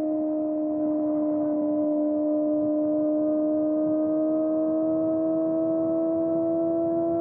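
Kawasaki ZX-4RR's inline-four engine through a Trick Star Ikazuchi slip-on exhaust, held at steady high revs with its pitch slowly rising as the bike gathers speed.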